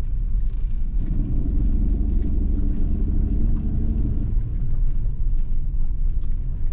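A motor vehicle's engine running with a low rumble; a steadier engine hum comes up about a second in and fades again about four seconds in.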